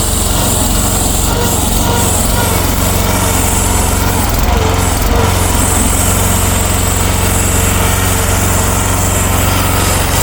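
Small gasoline engine of a mini excavator running steadily under load while it plows snow. There are a couple of brief knocks about four and a half seconds in.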